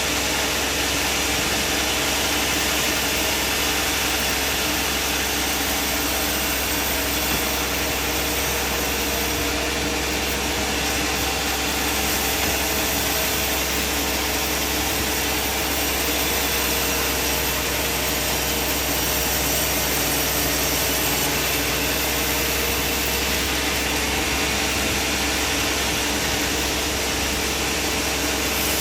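Bandsaw sawmill running steadily, a constant machine drone that holds one even level throughout.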